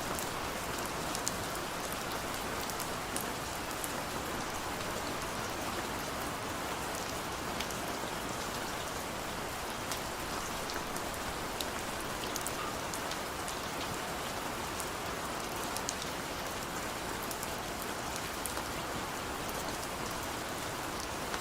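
Heavy rain falling steadily, an even hiss with many sharp individual drop impacts pattering through it.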